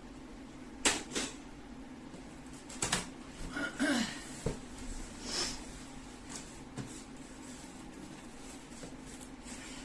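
Packaging being handled while a microwave is unboxed: a few sharp knocks and clicks, then a busier stretch of knocks with a short squeaky scrape and a brief rustle. A steady low hum runs underneath.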